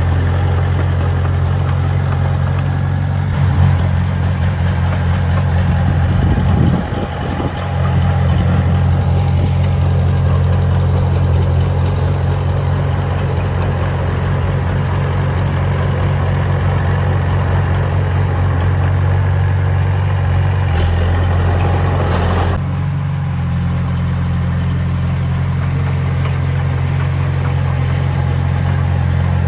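Heavy diesel engine of construction machinery running steadily at a low, even note. Its pitch and level shift a few times, with a brief dip a little after the sixth second and another change a little past twenty seconds.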